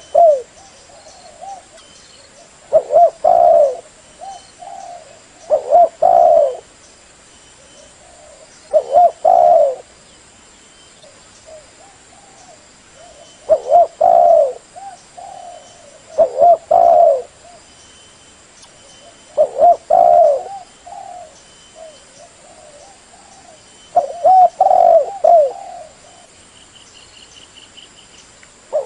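Spotted dove cooing its call phrase over and over, a new phrase every few seconds. This is a decoy dove's call, used as a lure to draw in wild spotted doves.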